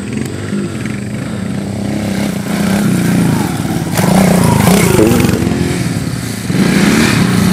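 Dirt bike engine running, with the revs rising about four seconds in and again near the end.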